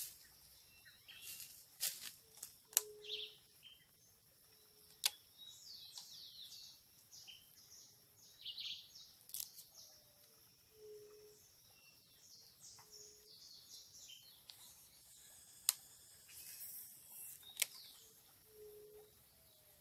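Birds chirping and calling, with short low notes repeating every couple of seconds and a few sharp clicks.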